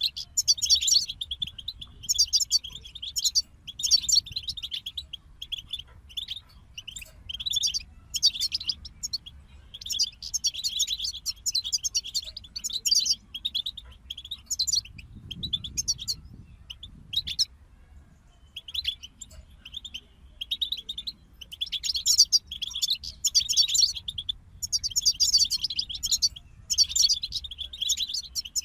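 European goldfinch song: rapid, twittering phrases of one to two seconds with short pauses between them, thinning out for a couple of seconds about two-thirds of the way through before picking up again.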